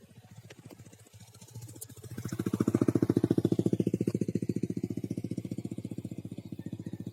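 A small engine running with a rapid, even putter. It grows loud about two seconds in, then slowly fades, as if it passes close by and moves off.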